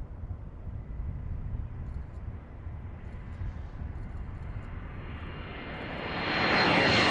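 A-10 Thunderbolt II's twin turbofan engines as the jet approaches: a low steady rumble, then a rising jet whine that grows louder over the last couple of seconds.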